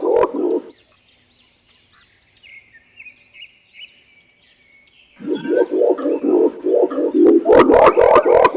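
Green imperial pigeon calling: a fast series of deep, rolling coos that breaks off just under a second in and starts again about five seconds in. In the gap between, a smaller bird chirps faintly.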